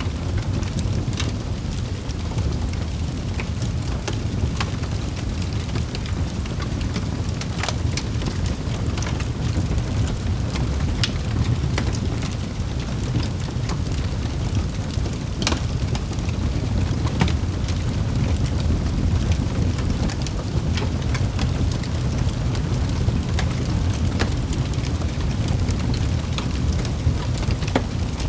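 Wood fire burning in a fireplace: a steady low rumble of the flames with scattered sharp crackles and pops, a few of them louder.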